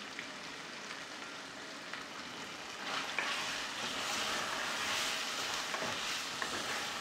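Sliced longaniza sausage sizzling as it fries in oil with tomato paste and seasoning in an aluminium pot. From about three seconds in, a wooden spoon stirs it briskly: the sizzle grows louder, with a few light knocks of the spoon against the pot.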